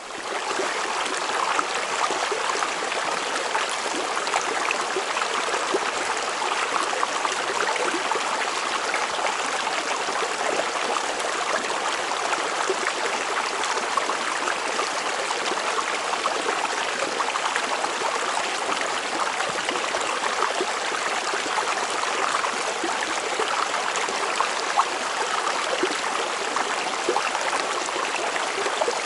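A small river flowing: a steady, unbroken rush of running water.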